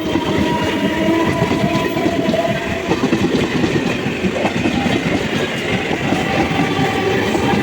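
MEMU electric multiple-unit train running along the track, a steady loud rumble with rapid wheel clatter. A faint steady whine sits over it for the first three seconds.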